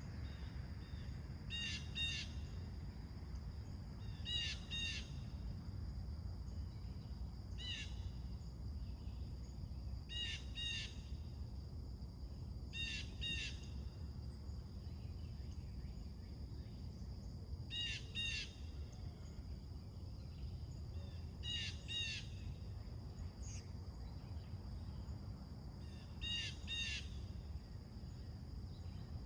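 A bird repeating a short two-note call about eight times, every few seconds, with crow-like calls in the neighbourhood. Underneath runs a steady high-pitched hum and a low rumble.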